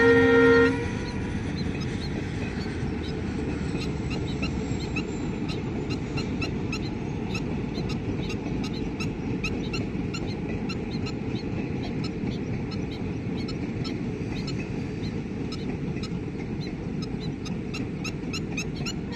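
A diesel-hauled passenger train's horn cuts off within the first second. After that the train's coaches rumble steadily along the track, under many short, high bird chirps.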